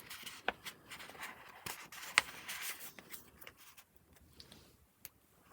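Paper pages of a handmade junk journal being handled and turned: soft rustling and rubbing of paper, with a few sharp clicks, three in all. It quietens after about three and a half seconds.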